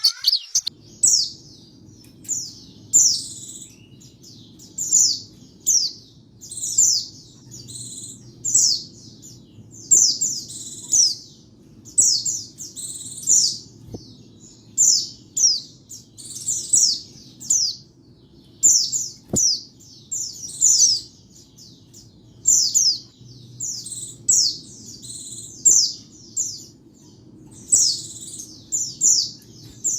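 White-eye (pleci) singing: short, high, quick twittering phrases repeated about once a second with brief gaps between them, over a faint low hum.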